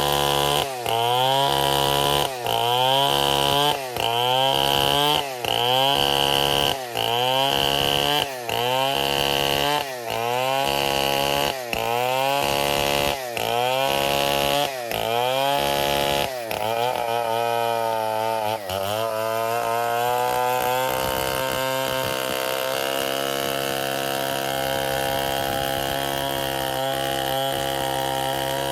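Stihl 070 two-stroke chainsaw running hard, its engine pitch dipping and recovering about every second and a half for the first half. About two-thirds of the way through it settles into a steady, high-pitched run.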